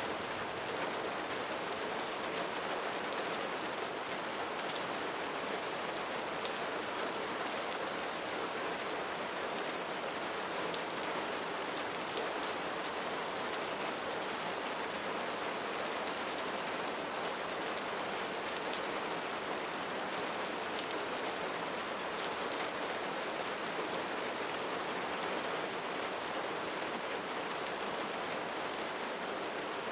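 Steady rain falling, a dense even patter of raindrops on leaves.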